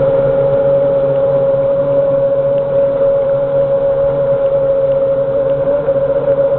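Racing boat engine running hard at high revs: one loud, steady engine note that holds its pitch and steps up slightly near the end.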